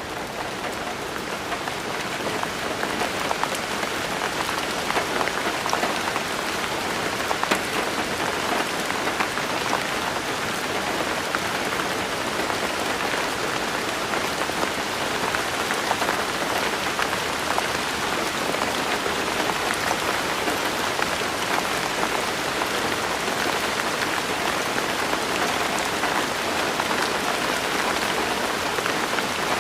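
Steady rain, with many separate drops ticking on a surface. It swells over the first few seconds and then holds even.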